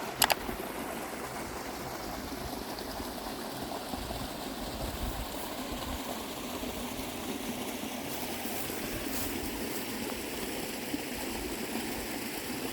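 A small stream flowing and trickling steadily. There is one sharp click just after the start.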